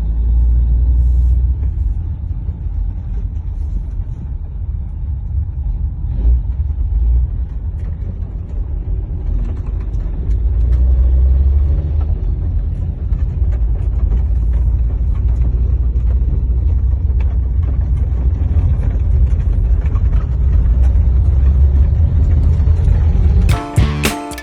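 Semi-truck diesel engine running, a steady low rumble that swells and eases a little. Music with a beat comes in near the end.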